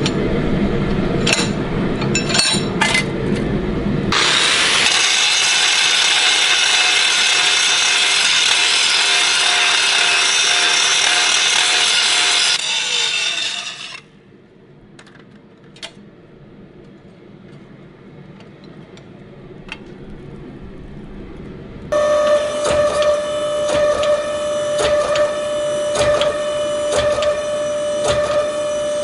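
Metalworking power tools on steel in several separate stretches: a low rumble with clicks, then a loud steady grinding hiss that stops about 13 seconds in, a quieter stretch with a few clicks, and from about 22 seconds a machine with a steady hum and regular ticks.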